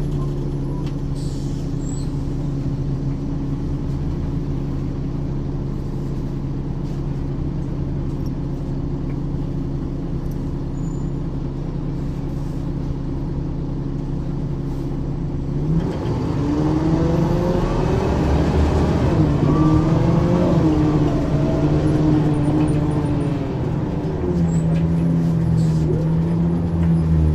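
Diesel engine of a 1994 Ikarus 435 articulated bus with a ZF gearbox, running steadily for about sixteen seconds, then louder as the bus pulls away, its engine note rising and falling several times, before settling to a steady tone near the end.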